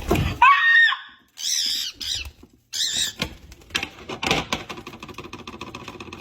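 Bird squawking: several short rising-and-falling high-pitched calls in the first three seconds. A steadier, rapidly pulsing pitched sound follows from about four seconds in.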